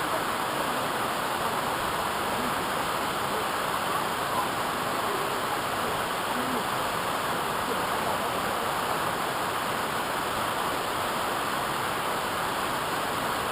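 A waterfall's steady rush of falling water, unbroken throughout.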